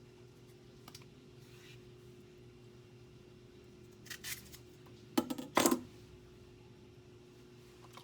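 A few short, sharp clinks and knocks from kitchen utensils being handled, loudest twice about five seconds in, over a steady low hum.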